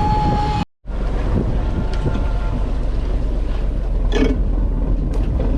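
Fishing boat's engine running steadily with wind buffeting the microphone; the sound drops out completely for a moment just under a second in.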